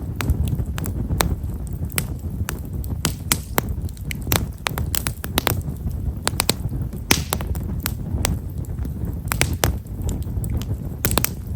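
Himeshara (Japanese stewartia) firewood burning in a bonfire, crackling with frequent small, sharp pops at irregular intervals over a steady low rumble.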